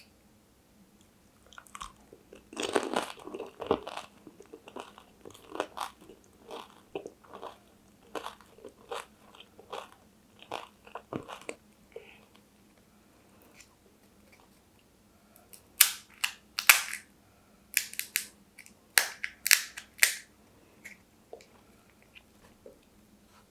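Pani puri being eaten close to the microphone: a crisp bite about three seconds in, then steady chewing about twice a second. After a short pause, a run of loud, sharp crunches comes near the end.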